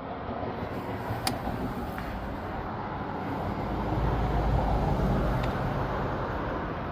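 A passing road vehicle: a broad rumble that swells to a peak about four to five seconds in and then fades. Two light metallic clicks come earlier.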